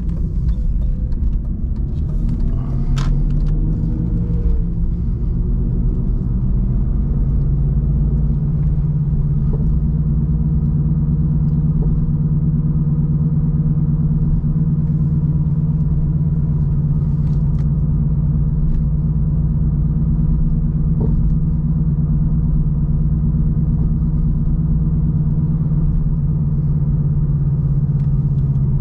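BMW 316i E46's four-cylinder petrol engine driving the car, its note rising over the first few seconds and then holding a steady drone at constant speed, over a low rumble.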